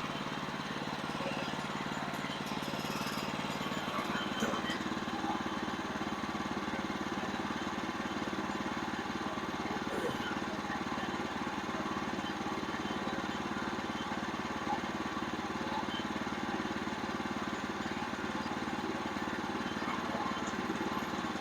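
Portable bandsaw sawmill's engine running steadily, with a few faint clicks on top.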